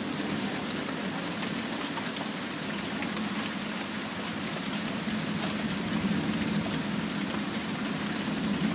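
Steady rain falling after a hailstorm, a dense even spatter of small drop hits, with a steady low hum underneath.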